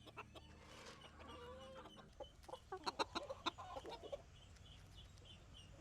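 Chickens clucking softly with short high calls, and a cluster of sharp clicks about three seconds in.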